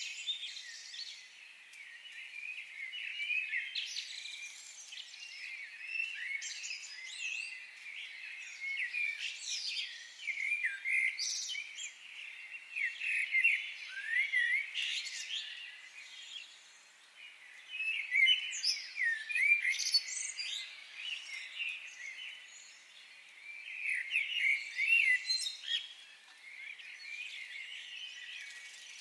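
Several birds singing and chirping together in a forest: many short, high chirps and whistled notes, some sliding in pitch, coming in busy clusters with quieter gaps between.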